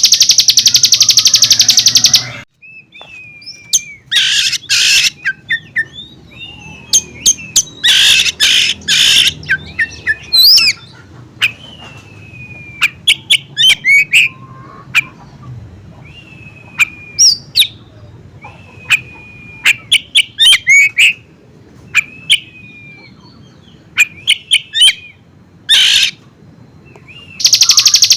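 Recorded birdsong of a mountain ciblek (prinia) spliced with an oriental magpie-robin. A loud, very fast repeated trill lasts about two seconds at the start and comes back near the end. Between the two trills runs a varied song of clear, slightly falling whistles, sharp chips and short buzzy notes with brief pauses.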